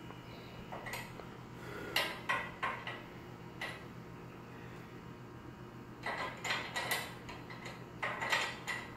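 Metal clinking and clanking in several short clusters: steel bars and tools working against a garage door's torsion spring hardware.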